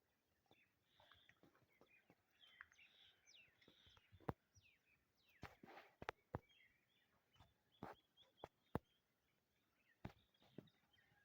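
Faint bird chirps and short calls, with a few sharp clicks or knocks scattered through.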